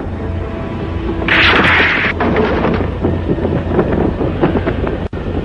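Cartoon soundtrack effects over a steady low rumble. About a second in comes a loud hissing burst lasting under a second, followed by irregular crackling.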